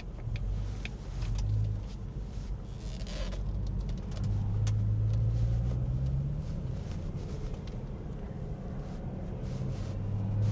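A car engine running with a low rumble, rising in pitch and getting louder for a couple of seconds around the middle before settling back.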